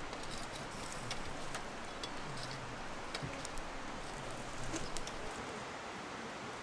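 Wood campfire crackling: a steady hiss with scattered sharp pops and snaps.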